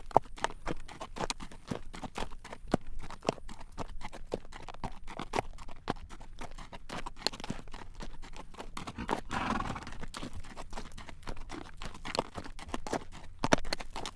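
A horse's hooves clip-clopping on a road at a walk while drawing a carriage, a steady run of sharp clacks several times a second.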